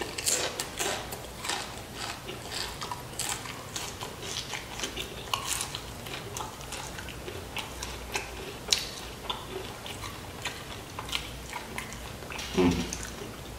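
Close-up mouth sounds of chewing loaded Flamin' Hot Doritos nachos: many small crackles and crunches of tortilla chips mixed with wet chewing.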